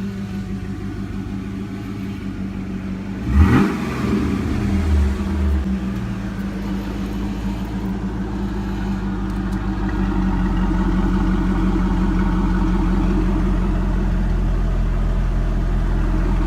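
2000 Trans Am's LS1 V8 running through a new higher-flow muffler and tips. It idles steadily, is blipped in a sharp rev about three and a half seconds in, revs again more briefly just after, then settles back to a steady idle that gets a little louder near ten seconds in.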